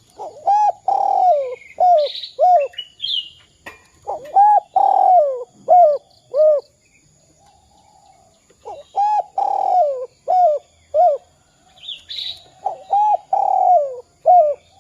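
Spotted dove (derkuku) cooing its song phrase four times. Each phrase is a short coo, a long falling coo, then two short 'kuk' notes. Small birds chirp faintly and higher between the phrases.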